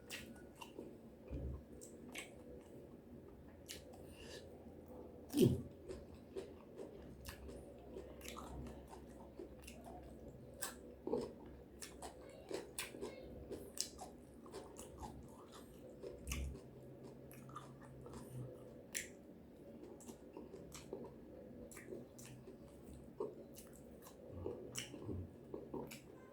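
A person chewing and biting food, with irregular small crunches and wet clicks throughout and a few louder bites. A faint steady hum runs underneath.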